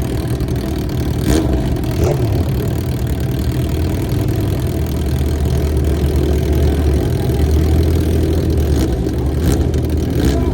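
Vehicle engine idling with a steady low rumble that swells twice, with a few short sharp clicks over it.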